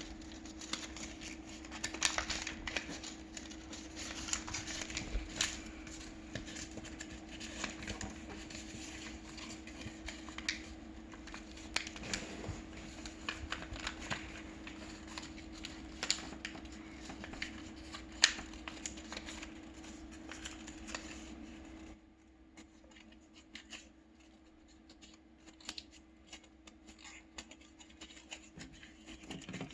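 Paper being folded by hand: irregular crinkling, rustling and sharp creasing clicks. A steady low hum runs underneath and cuts off about 22 seconds in, leaving only sparser, quieter paper handling.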